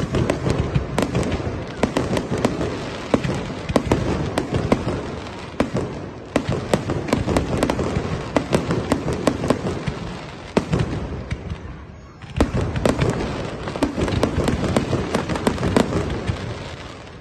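Fireworks display: a dense, rapid barrage of bangs and crackling, easing off briefly about eleven seconds in and picking up again a second later.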